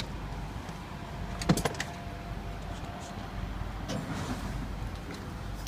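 Truck cab door being unlatched and opened: a sharp click, then a louder knock with a short metallic ring about a second and a half in, and a few fainter knocks later, over a steady low rumble.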